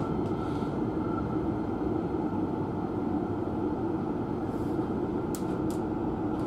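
Hankyu 9300-series electric train running, a steady rumble of wheels on rail and running gear heard from behind the driver's cab, with a couple of faint ticks about five seconds in.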